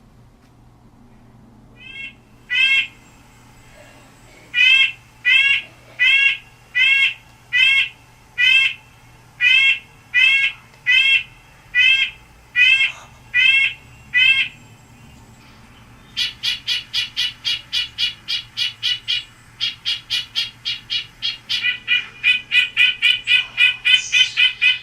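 Red-breasted nuthatch giving its 'enk' calls: a string of evenly spaced single notes, about one every 0.7 s, then a much faster run of quick repeated notes that speeds up again near the end.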